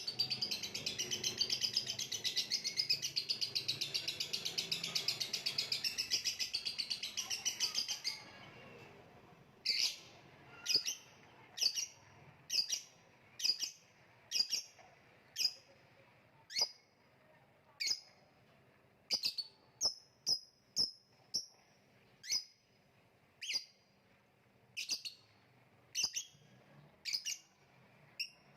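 Lovebird singing: a dense, rapid chattering trill for about eight seconds, then single sharp falling chirps about once a second.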